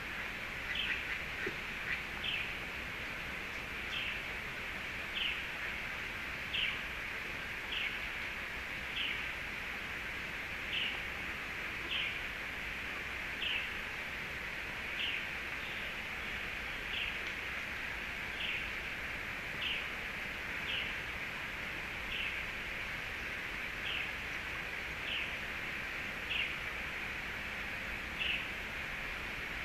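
A bird repeating one short, slightly falling high chirp about every second and a quarter, steadily through the whole stretch, over a constant hiss of outdoor background noise.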